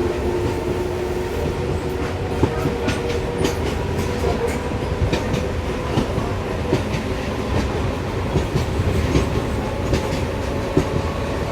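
Passenger train running along the track: a steady rumble of wheels on rail, with irregular clicks as the wheels pass over rail joints.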